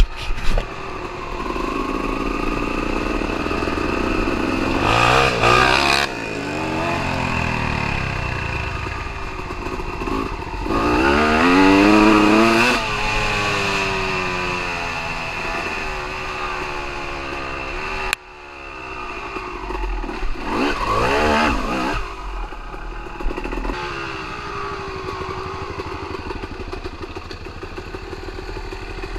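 Dirt bike engine running and revving, its pitch climbing and falling again and again. It is loudest about halfway through, drops off abruptly a little past the middle, then builds back up.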